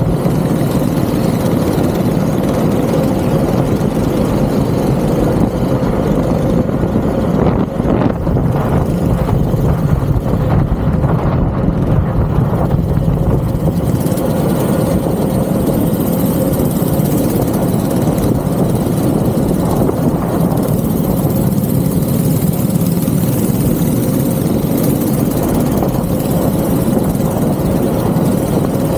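Go-kart engine running steadily at speed on track, without pauses.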